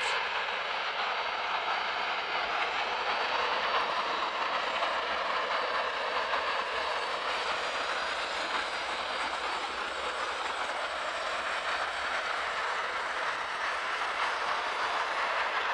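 Jet aircraft engine noise: a steady rushing sound that holds level, with no clear whine.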